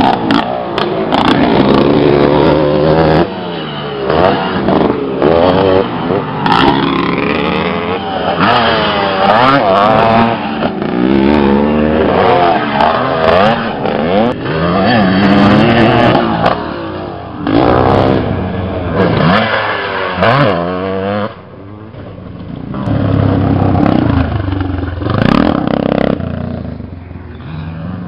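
Classic motocross motorcycles racing, several engines revving up and down through the gears as they pass, overlapping one another. The engines drop away briefly about three quarters of the way through, then one revs back up.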